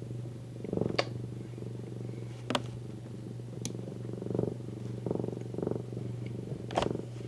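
Domestic cat purring steadily with a low, rapidly pulsing rumble that swells and eases with its breathing. A few sharp clicks sound at intervals.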